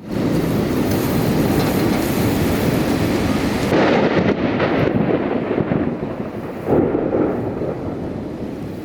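Thunder rolling in a long rumble, with two louder surges about four and seven seconds in, fading toward the end.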